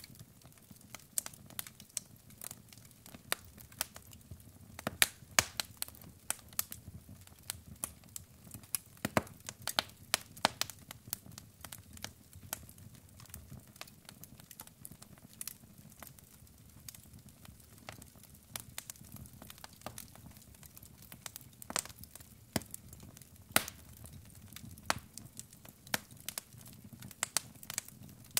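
Wood logs burning in a fireplace, crackling with frequent irregular sharp pops and snaps over a low steady rumble.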